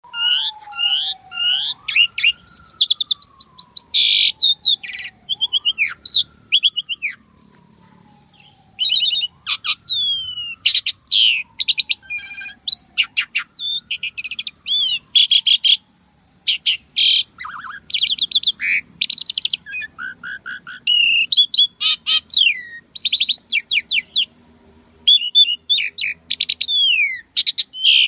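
Pied starling (jalak suren) singing non-stop. It gives a dense, fast run of varied whistles, chattering trills, clicks and gliding notes with hardly a pause: the full, varied song of a bird in top singing form.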